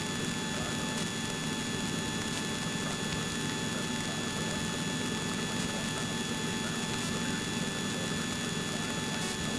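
Steady drone of a light helicopter's engine and rotors in cruise flight, heard from inside the cabin. A deep, even hum dominates, with a few thin steady whines above it.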